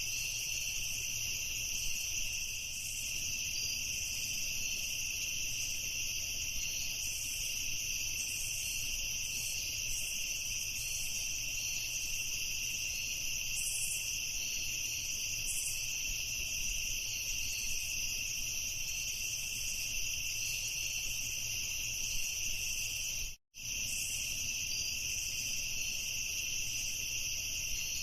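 Crickets chirping in a continuous, steady chorus of high trills. The sound cuts out completely for a split second about 23 seconds in, then resumes.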